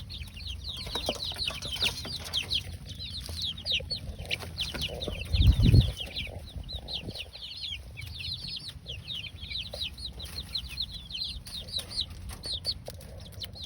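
A flock of young chicks peeping continuously, many short, high, downward-sliding peeps overlapping. A brief low rumble about five and a half seconds in.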